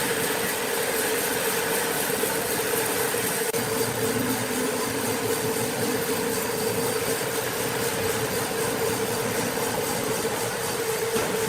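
Sawmill machinery running steadily with a constant hum.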